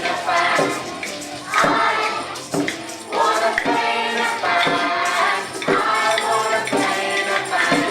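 Music: a group of children singing a song together over instrumental accompaniment with regular percussive strokes.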